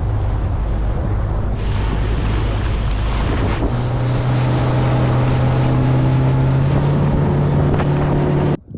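Duck boat's outboard motor running hard in shallow water; the engine speeds up a little under four seconds in and cuts off suddenly near the end.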